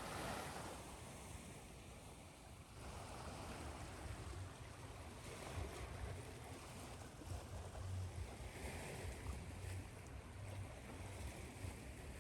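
Ocean surf: a steady rush of wave noise, with waves swelling and washing in every few seconds.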